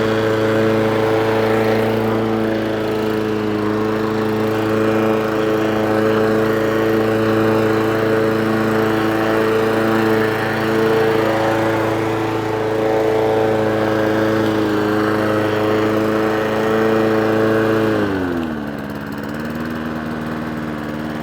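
Mountfield lawnmower's Honda four-stroke engine running steadily at speed, then slowing about three-quarters of the way through and settling to a lower, steady speed. The carburettor's idle still wants a little adjustment.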